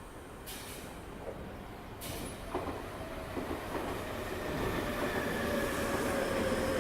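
Tobu 9050 series electric train pulling away from a station platform. There are a few short hisses in the first two seconds and a knock. After that the motors' whine comes in as thin tones, and the sound grows louder as the train gathers speed.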